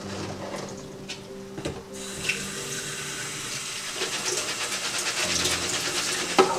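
Kitchen tap running into a sink for a few seconds, starting about two seconds in, followed by a sharp knock near the end. Soft background music plays underneath.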